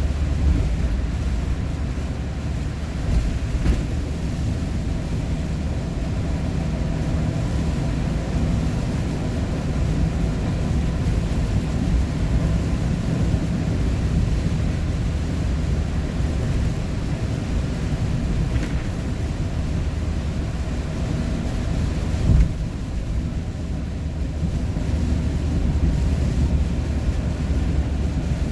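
Steady low rumble of road and engine noise inside a moving vehicle's cabin, with a single short knock about 22 seconds in.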